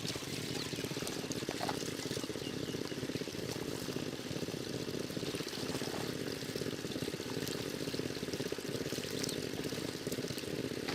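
Water pouring steadily, a continuous rushing noise.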